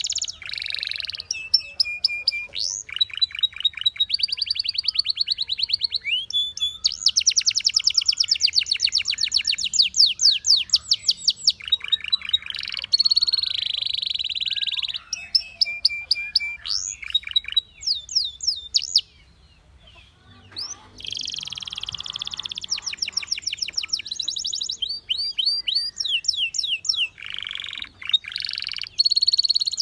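Canary singing a long, high-pitched song of fast trills and rolling runs of rapidly repeated notes, broken by one short pause about two-thirds of the way through.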